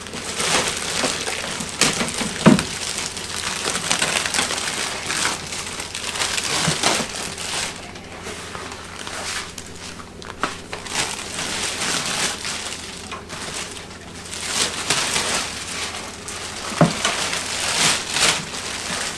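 Plastic packaging rustling and crinkling as parts are unwrapped and handled, with a few knocks.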